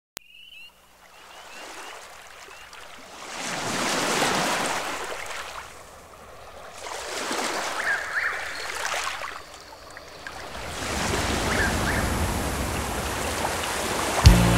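Ocean waves washing in, three slow swells each rising and falling over about four seconds, with a few faint high chirps. Music with a heavy bass comes in right at the end.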